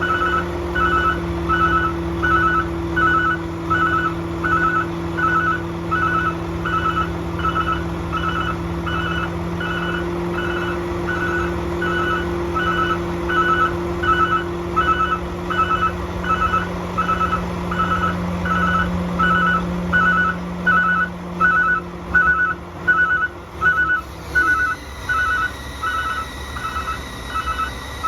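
Truck backup alarm beeping a little faster than once a second over the Volvo D13 diesel engine running steadily. Near the end the engine note drops away while the beeping goes on.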